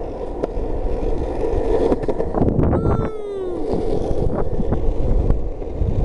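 Skateboard wheels rolling on pavement with a steady rumble and a few small clicks, and a brief falling squeal about three seconds in.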